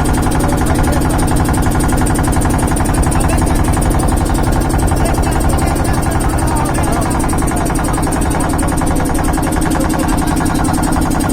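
A steady engine-like drone, even in level throughout, with a held low hum.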